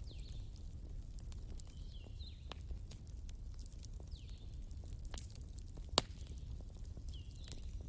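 Wood bonfire burning, with irregular crackles and sharp pops over a low steady rumble; the loudest pop comes about six seconds in.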